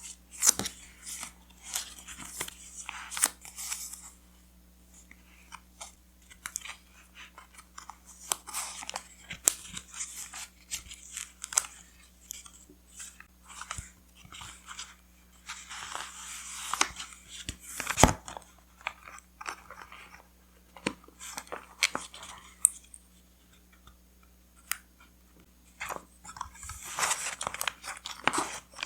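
Paper being handled and crinkled in irregular crackly bursts, with many small clicks and taps, one sharper knock about eighteen seconds in.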